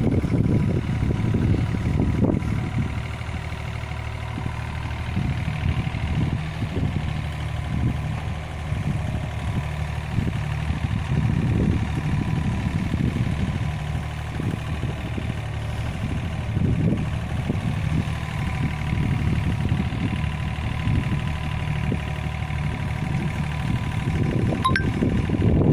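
Yanmar ViO35-3 mini excavator's diesel engine running steadily under work, with a thin steady whine above it.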